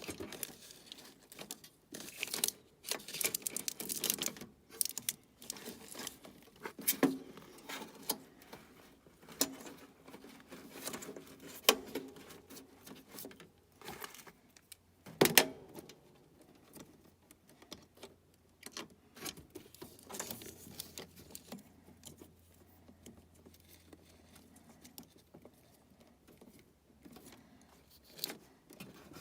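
Irregular clicks, taps and light metallic rattles of hands working with wiring and small metal parts inside a heat pump's cabinet, with a couple of sharper knocks about 12 and 15 seconds in.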